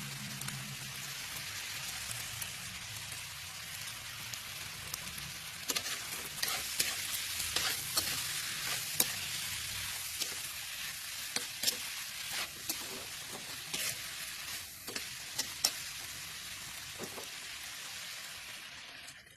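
Food sizzling as it fries in a pan, a steady hiss, with a utensil clicking and scraping against the pan from about six seconds in as it is stirred. The sound cuts off suddenly at the end.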